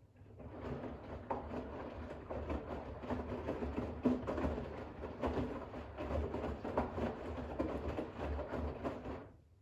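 Bosch WAX32GH1 washing machine turning its drum during a rinse of towels: water and the wet load slosh and knock over a low motor hum for about nine seconds, then the drum stops for a pause.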